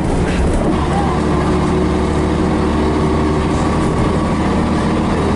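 Scania BR111H bus's six-cylinder diesel engine running steadily under way, holding an even note.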